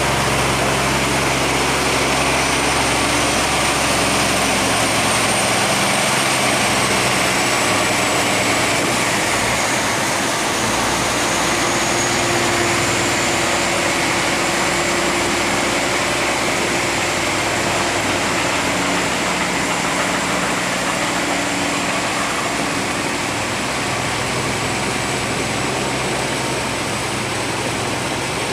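Steady rush of fast water pouring through a sluice gate, with a boat's engine running underneath and a thin high whine that dips slightly in pitch about a third of the way through.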